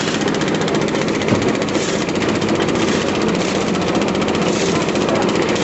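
Construction machinery engine running steadily with a fast, even rattling pulse.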